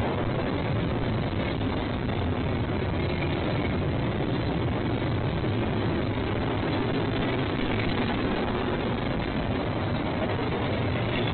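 Train rolling past, a steady unchanging noise with a low hum underneath.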